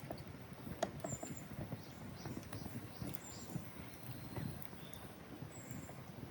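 Wood fire crackling in a fire pit: irregular sharp pops and clicks over the low rustle of burning wood, with a faint high chirp now and then.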